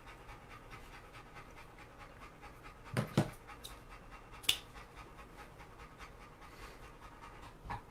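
A dog panting steadily in quick, even breaths. A few short knocks and clicks cut in about three seconds in, again at four and a half seconds, and once near the end.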